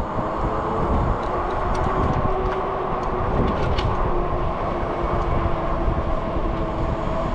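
Steady riding noise from a moving electric bike: wind buffeting the microphone and tyre and road noise, with a faint steady hum and a few light ticks.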